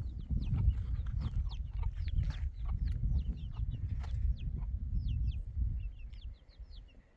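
Many short, high, downward-sliding bird chirps in quick succession, over a low rumbling noise that eases off near the end.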